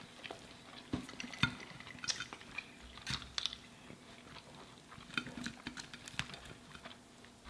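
A person chewing fried food close to the microphone: quiet mouth sounds with scattered short clicks and crunches.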